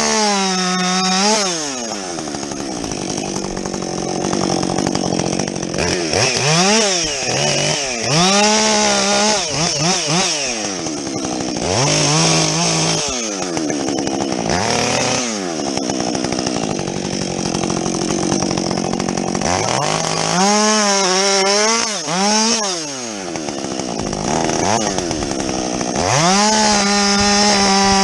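Husqvarna 562XP two-stroke chainsaw with a modified muffler bucking logs: the engine is held at a steady high rev, then drops and climbs again several times between and during cuts.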